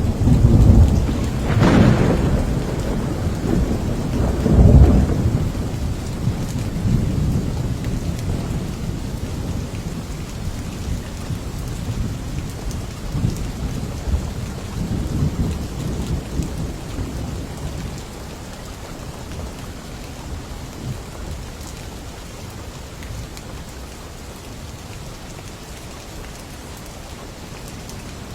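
Thunderstorm: steady rain with rolling thunder. The thunder is loudest in the first five seconds, with two sharper crashes about two and five seconds in, then rumbles on more faintly and dies away, leaving only the rain.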